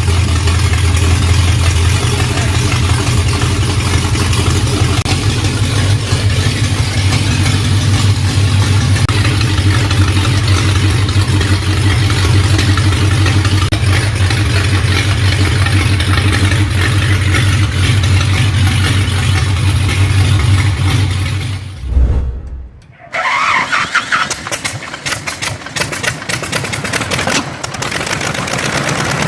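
Ford Flathead side-valve V8 engine running steadily. About twenty seconds in, the sound breaks off for a moment and a different engine sound follows.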